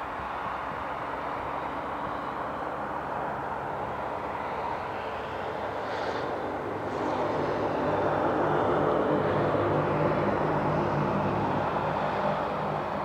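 Twin turboprop engines and propellers of a de Havilland Canada Dash 8-100 airliner running, a steady hum with a low propeller drone that grows louder about halfway through.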